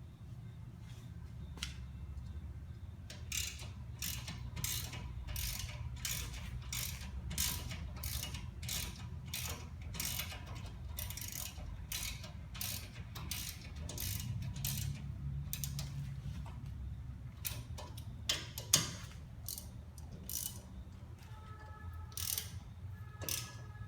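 Ratchet wrench clicking in a steady rhythm of about three clicks a second as the wheel hub assembly's mounting bolts are run in, then a few scattered clicks near the end.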